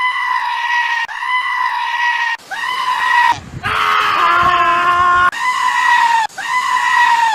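A goat screaming over and over in loud, high, steady-pitched calls of about a second each, back to back. In the middle a lower, longer bleat of about two seconds breaks in.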